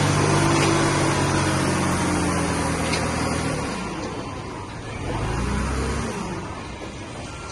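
Heavy-equipment diesel engine running steadily, then dropping away suddenly about three and a half seconds in, with a brief low surge of engine sound a second or two later.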